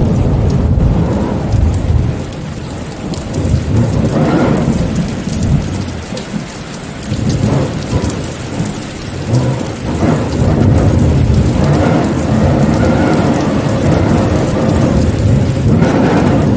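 Steady rain with a deep rumble underneath that swells and eases several times.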